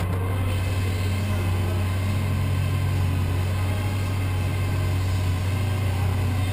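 Carbureted 360-cubic-inch small-block Chevrolet V8 idling steadily on an engine dyno: an even low drone that holds the same pitch throughout, with no revving.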